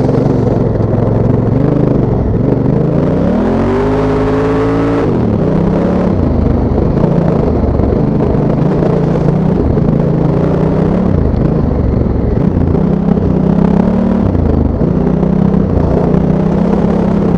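Honda Africa Twin's parallel-twin engine pulling the bike across sand. The revs climb steeply a few seconds in and drop sharply at about five seconds, then run fairly steadily with small rises and dips as the throttle is worked.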